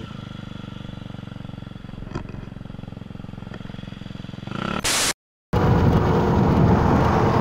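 Motorcycle engine idling steadily. About five seconds in there is a brief hiss and a short cut to silence, then louder motorcycle riding noise.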